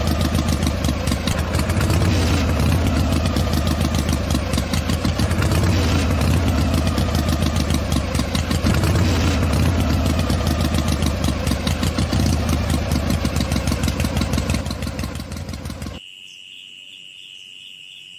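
A small motor or engine running steadily with a fast, even pulse and a strong low hum. It fades about fourteen seconds in, then cuts off abruptly, leaving a faint steady high tone.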